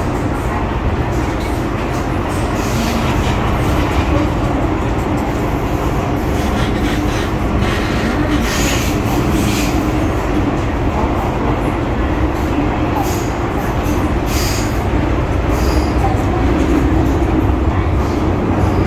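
MTR M-Train electric metro train running, a steady rumble of wheels and running gear. Brief high squeals of the wheels come around halfway through and again a few seconds later.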